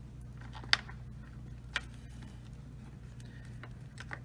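Light handling clicks and taps as dishwasher parts and wiring are worked by hand, the sharpest about three-quarters of a second in, over a steady low hum.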